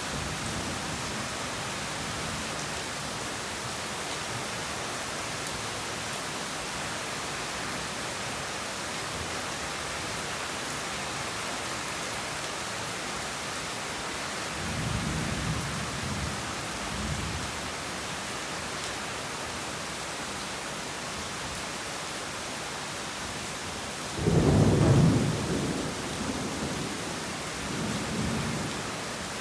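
Heavy rain falling steadily, with thunder: a low rumble rolls in about halfway through, then a louder clap about three-quarters of the way in that rumbles on to the end.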